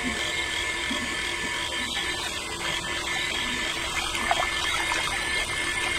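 A small electric motor running steadily with a constant whine.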